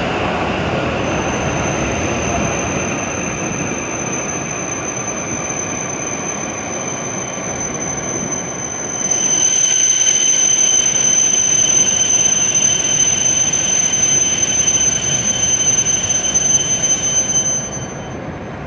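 W7 series Shinkansen train braking into the platform, with a steady high-pitched squeal over the running noise. The squeal grows louder with more high tones about halfway through, then cuts off suddenly shortly before the end as the train comes to a stop.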